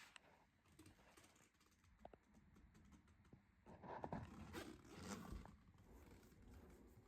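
Near silence: faint room tone with a few soft rustles and clicks, the most of them a few seconds in.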